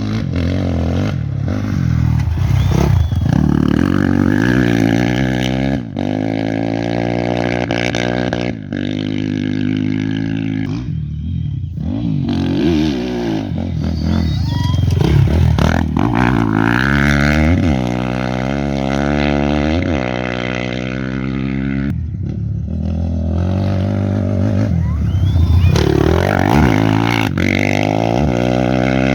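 Off-road race motorcycles passing one after another at speed, engines revving and shifting, their pitch rising and falling as each goes by.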